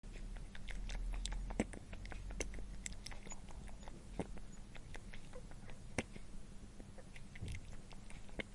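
An animal chewing and crunching food: irregular sharp crunches a few times a second, over a low steady hum.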